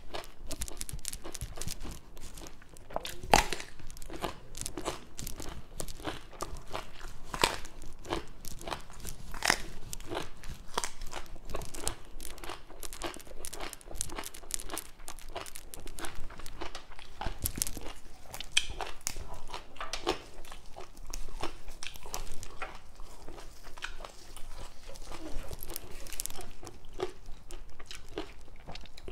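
Chewing and crunching raw Thai eggplant and other fresh vegetables: a steady, irregular run of crisp crunches, with one especially loud crunch about three seconds in.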